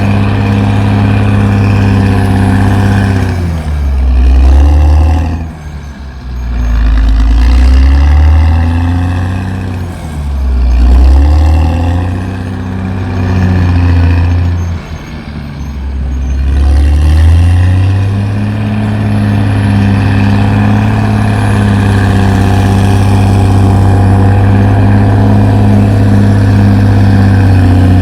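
Diesel engine of a CAT D6R XL crawler bulldozer running hard. Its pitch and loudness fall and climb back several times through the middle, then it holds a steady high note.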